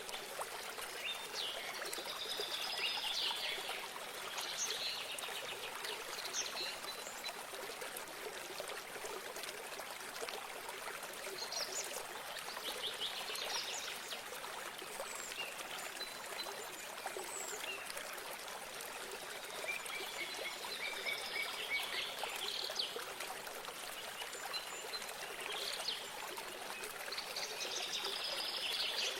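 Small stream of water running steadily, with birds singing in short phrases about four times: near the start, around 12 seconds, around 20 seconds and near the end.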